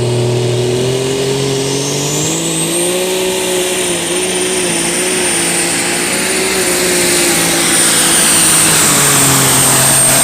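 Light super stock pulling tractor on a run down the track: the engine runs at high revs under load, its note wavering and dropping back near the end, with a high turbocharger whine that climbs over the first few seconds and then holds.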